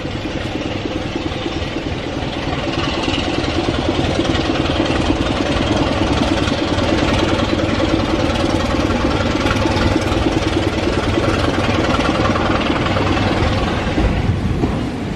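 An engine running steadily, growing louder over the first few seconds and easing off near the end.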